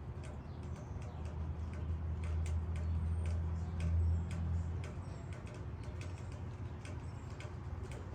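Raindrops dripping and ticking irregularly on leaves, with a low rumble that swells about two seconds in and fades again about five seconds in.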